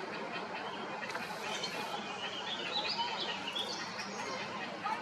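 Birds chirping in quick, short notes over a steady background hiss of outdoor ambience.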